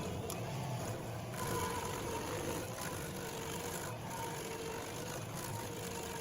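A machine engine running steadily, with a faint, slightly wavering hum.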